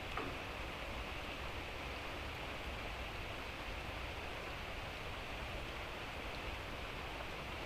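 Light rain falling steadily, an even hiss of drizzle, with one brief click just after the start.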